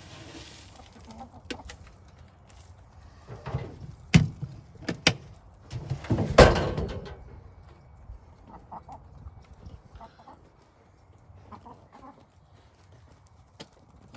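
Backyard chickens clucking as they go after worms tossed out to them, with several sharp clicks and knocks and one louder noisy burst about six seconds in.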